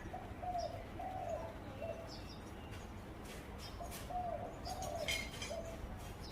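Zebra dove cooing: two phrases of short, soft coo notes, the first near the start and the second about four seconds in, with fainter high chirps from other small birds.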